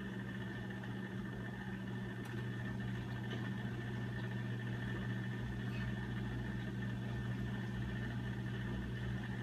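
Steady low electrical or mechanical hum with a faint higher whine, and a few faint light clicks.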